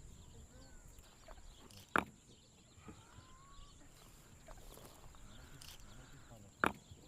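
Two sharp knocks, one about two seconds in and one near the end, over faint bird chirps.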